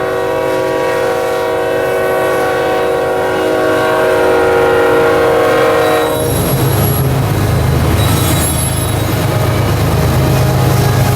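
Freight locomotive's air horn held as one long multi-note chord for about six seconds, then cut off. After the horn stops, the GE diesel locomotives of a BNSF freight train pass close by with a heavy low engine rumble and wheel noise.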